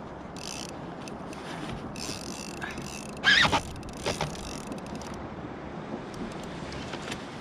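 Steady wind and water noise around a kayak at sea, with scattered small clicks and knocks and a brief louder sound about three and a half seconds in.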